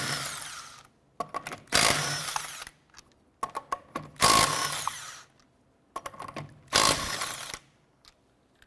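A power wrench with a 19 mm socket spins lug nuts off a car wheel in short bursts of about a second each, three of them plus the end of another at the start. Small clicks of the socket going onto each nut come between the bursts.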